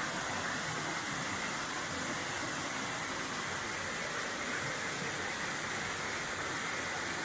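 Steady rushing noise of Ganoga Falls, a tall waterfall, falling water heard as an even, unbroken hiss.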